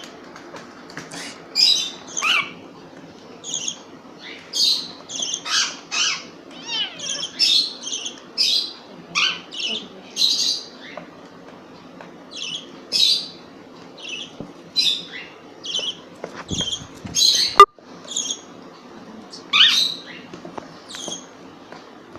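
Small pet parrots squawking in short, high, repeated calls, one or two a second with brief pauses. A single sharp click about two-thirds of the way through.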